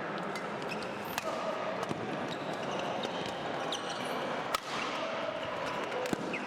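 Badminton rally in a sports hall: sharp racket strikes on the shuttlecock, the loudest about two-thirds of the way through, with short squeaks of shoes on the court over a steady background of voices.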